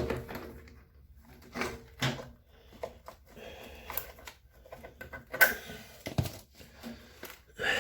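Irregular clicks, knocks and light clatter of hands handling the plastic and rubber parts of a dismantled LG washing machine, including its drain hose, with a sharper knock about five and a half seconds in.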